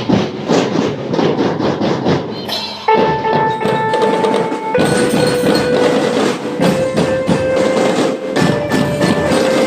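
Marching band playing: a run of quick drum strokes, then about three seconds in, held melody notes come in over the drumming.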